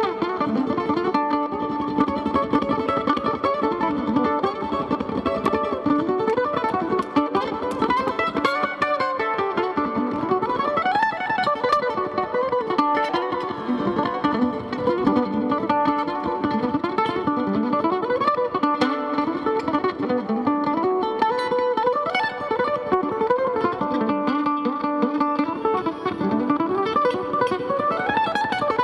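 Mandolin solo: rapid picked runs of notes that repeatedly climb and fall, with no singing.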